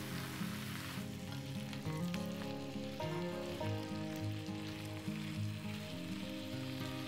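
Food frying in a pan, a steady crackling sizzle that thins out after about a second, under background music of sustained notes.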